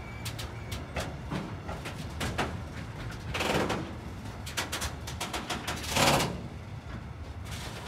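Freight train of box wagons rolling slowly past, its wheels and running gear clicking and clattering over a low rumble, with two louder rattles about three and a half and six seconds in.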